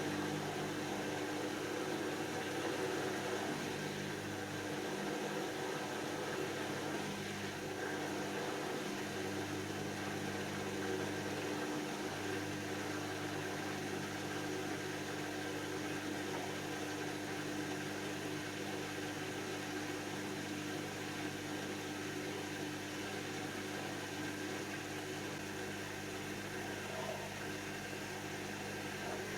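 Hoover DYN7144XD1 washing machine running: a steady motor hum and whine over the rushing noise of the turning drum.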